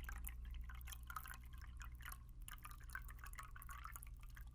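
Water poured in a thin, gentle stream into a cup: a steady trickle of small drips and light splashes with little splash.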